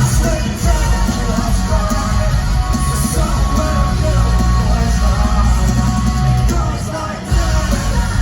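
A live pop-punk band playing loudly over a concert PA, with heavy bass and drums. The bass drops out for a moment about seven seconds in, then comes back.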